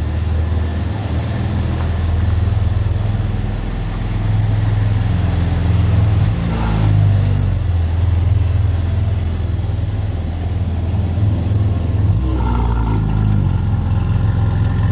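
BMW G80 M3's twin-turbo inline-six running as the car moves off at low speed, with two brief rises and falls in engine pitch, about halfway through and near the end.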